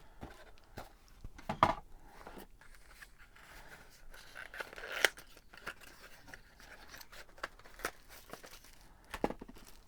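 Unboxing handling noise: plastic packaging and small parts being taken out, with scattered light clicks and knocks and a brief crinkling rustle about four to five seconds in.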